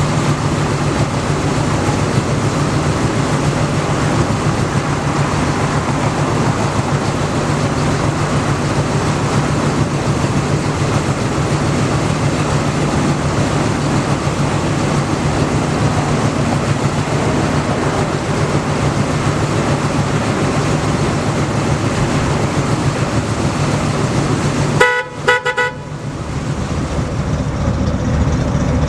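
1989 Dodge 150 pickup's engine idling steadily, with the horn sounded in a few short beeps near the end.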